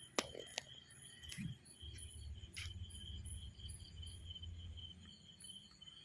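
Insects chirping in a steady, pulsing rhythm, with a few sharp clicks in the first few seconds, the loudest just after the start, and a low rumble underneath.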